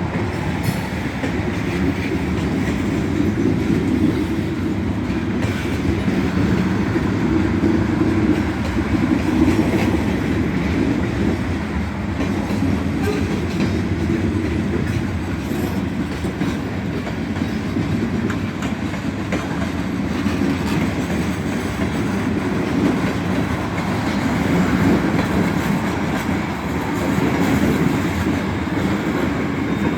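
Manifest freight train rolling past, a steady rumble of steel wheels on rail with some clatter.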